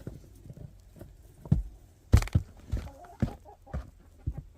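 Footsteps walking through snow, a steady pace of about two steps a second, starting about a second and a half in.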